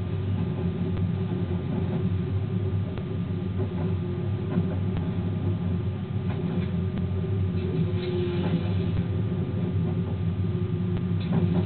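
Train running along the track, heard from the driver's cab: a steady low rumble with a constant drone, and faint clicks from the wheels.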